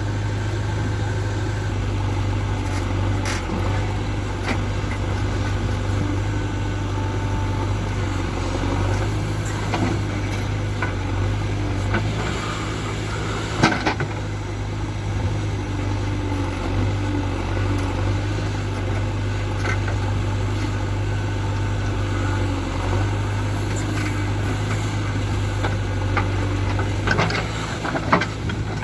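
JCB 3DX backhoe loader's diesel engine running steadily with a deep even hum. A few sharp metallic knocks come through it, the loudest about halfway and near the end.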